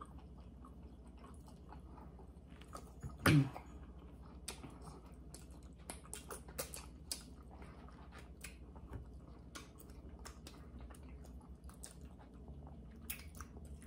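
Quiet chewing and biting into barbecued baby back pork ribs, with scattered smacking clicks of eating. One louder sound comes about three seconds in.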